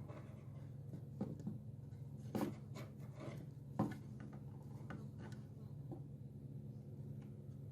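A few light clicks and short scrapes of objects being handled, over a steady low electrical hum.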